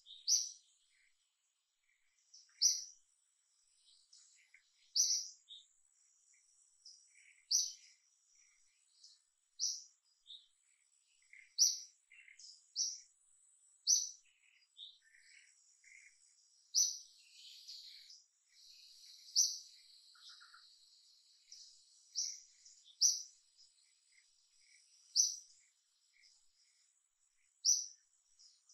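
A bird calling with short, high chirps, about one every two seconds, over a faint, steady, high-pitched insect drone.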